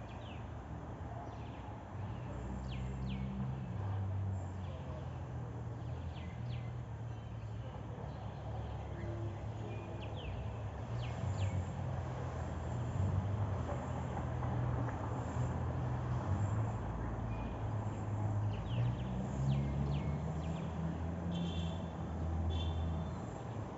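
Small birds chirping, short quick high notes scattered through, over a steady low rumble.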